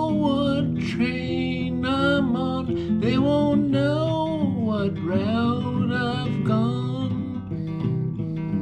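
Acoustic guitar playing a folk tune with a voice carrying the melody over it. The voice drops out about seven seconds in and the guitar carries on alone.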